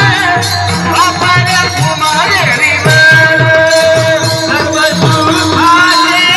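Marathi devotional kirtan singing by male voices, with a long held note about halfway through. Underneath run steady mridang drum strokes and a high jingling percussion.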